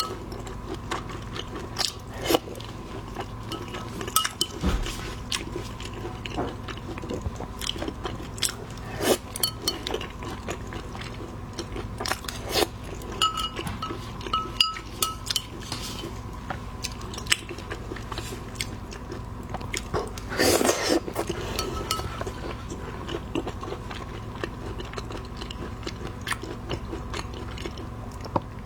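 Seafood being bitten and chewed, with irregular crunches and sharp clicks throughout and a louder crackly stretch about two-thirds of the way in.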